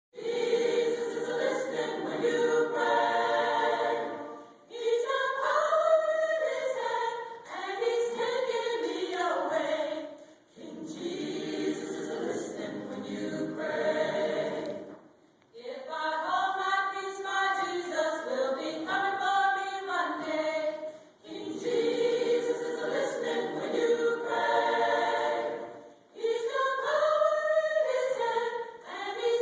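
A choir singing, in phrases of a few seconds with short breaks between them.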